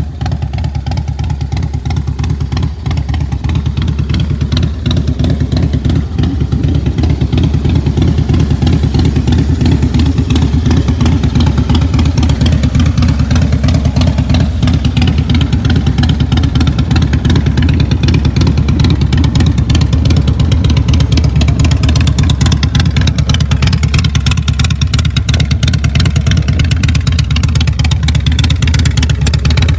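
Harley-Davidson Softail Deuce's V-twin engine running steadily, a little quieter for the first few seconds and then holding an even pace.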